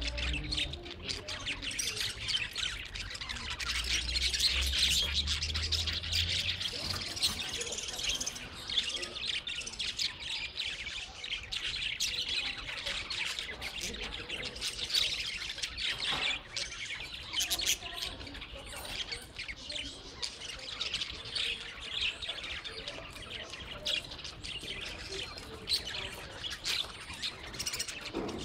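A group of small parrots chattering, with many quick chirps and squawks overlapping.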